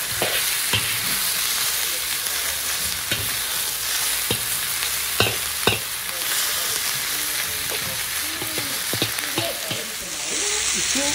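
Vegetables sizzling in hot oil in a wok over a high flame, with a spatula scraping and knocking against the wok as they are stir-fried. Near the end the sizzle gets louder as more vegetables are tipped in from a colander.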